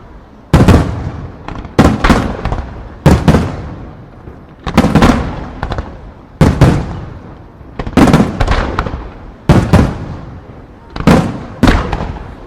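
Aerial firework shells bursting in rapid volleys: a cluster of loud bangs about every one and a half seconds, each dying away in a rolling echo.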